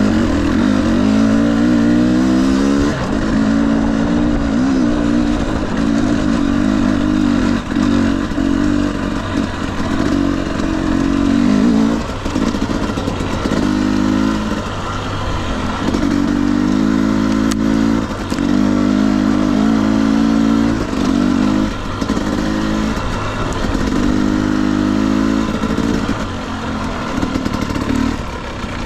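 2021 Husqvarna TE250i two-stroke dirt bike engine under a rider on trail, the throttle opening and closing again and again so the pitch keeps rising and falling, with a few knocks from the bike over rough ground.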